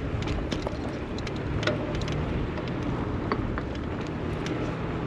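City road traffic noise: a steady low rumble with scattered light clicks and ticks.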